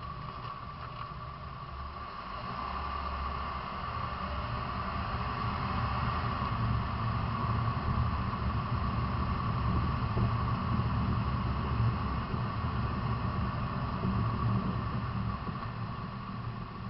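A vehicle running: a low rumble with a steady high whine, swelling louder through the middle and easing off near the end.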